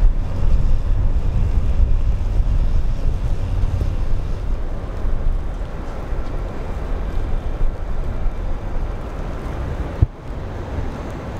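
Blizzard wind buffeting the microphone: a loud, steady low rumble that swells and eases with the gusts. A single brief knock comes about ten seconds in.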